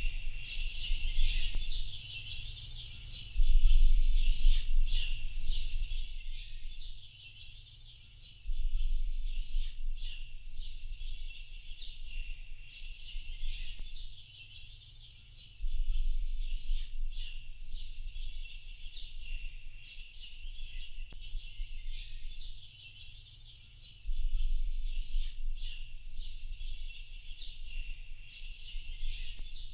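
Many small birds chirping and singing at once in a dense, continuous high-pitched chorus. Beneath it, a low rumble swells and fades in several long stretches.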